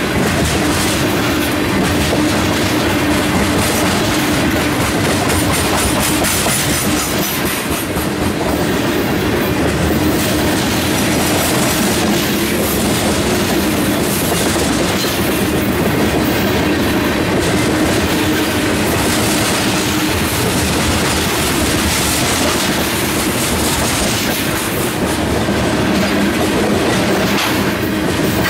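Tank cars of a freight ethanol train rolling past at close range: a steady rumble of steel wheels on the rails, clicking over the rail joints, with a steady low hum underneath.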